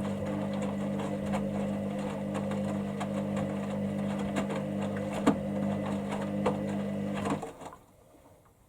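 Hoover Dynamicnext washing machine on its main wash, the drum motor humming steadily while the load tumbles with scattered clicks and knocks. The motor stops about seven and a half seconds in, and the drum falls quiet.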